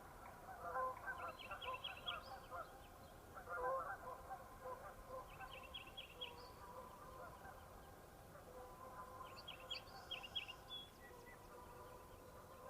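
A flock of geese honking, calls crowding together in the first few seconds, then fainter and more scattered. Three short, rapid high trills come in between the honks.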